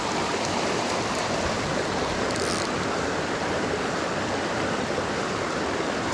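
Steady rush of a small mountain stream tumbling over rocks, running high.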